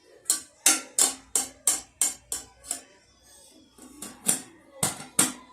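A baby's toy rattle shaken in quick strokes, about three a second, then a pause of over a second and a few more shakes near the end.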